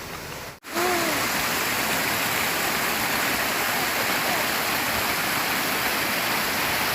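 Mountain stream water rushing steadily close by, starting abruptly after a brief cut about half a second in.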